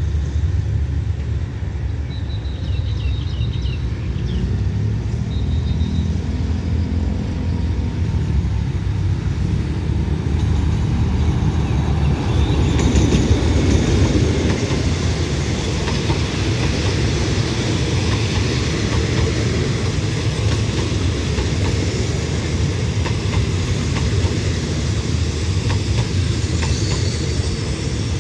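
A diesel-hauled passenger train of red-and-cream State Railway of Thailand coaches rolls past as it pulls into a station. A low rumble swells to its loudest around the middle as the front of the train goes by. After that come the coaches' wheels, rumbling and clicking over the rail joints.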